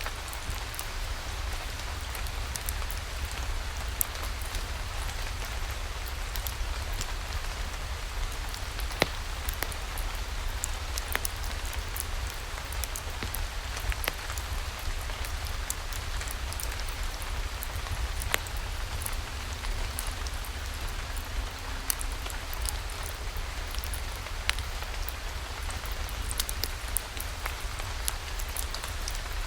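Steady rain hissing, with scattered sharp pops and ticks from a crackling wood fire in a fireplace, over a steady low rumble.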